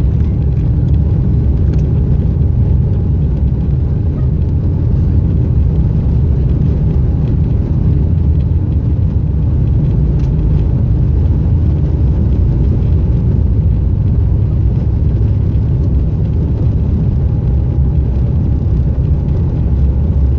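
Steady low rumble inside the cabin of an Airbus A350 during take-off: engine and airflow noise from its Rolls-Royce Trent XWB turbofans, even and unbroken.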